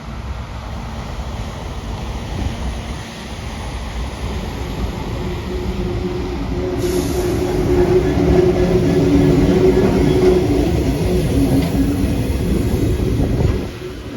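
A train passing close by, its rumble growing louder to a peak about two-thirds of the way through, with a steady whine over it; the sound drops off sharply just before the end.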